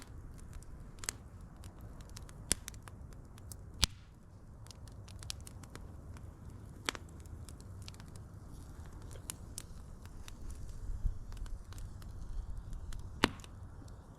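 Wood fire crackling: a low rumble of flames with scattered sharp pops and snaps, the loudest about four seconds in and near the end.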